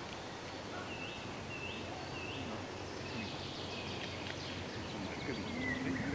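Outdoor garden ambience: a steady background hiss with a small bird singing, a short chirped note repeated three times about a second in, and a few fainter calls near the end.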